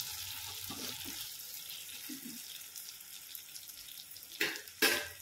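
Shernya vegetable curry sizzling in a pan on a gas stove, a steady soft hiss that slowly fades, with a spoon scraping through it in the first second or two. Two sharp clatters near the end.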